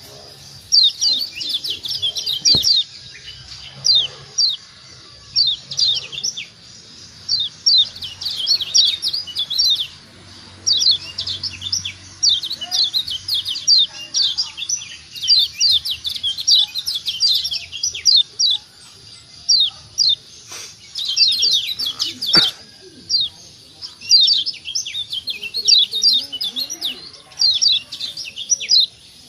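Kecial kuning (Lombok yellow white-eye) giving quick bursts of short, high, downward-slurred 'ciak' call notes, several notes to a burst, repeated with short gaps.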